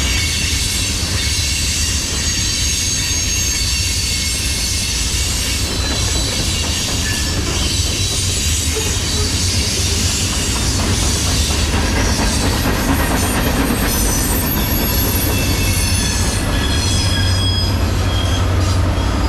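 Norfolk Southern freight train's cars rolling steadily past, a continuous low rumble with high-pitched steel wheel squeal running over it.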